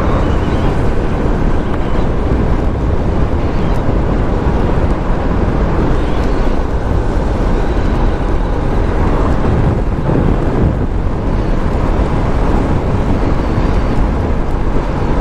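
Steady wind rush and motorcycle engine noise from a moving motorcycle, picked up by the rider's microphone while riding.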